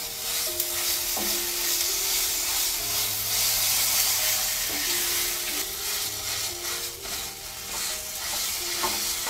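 Softened roselle calyces and a dried red chilli sizzling steadily in hot mustard oil in a nonstick frying pan while being stirred with a wooden spatula.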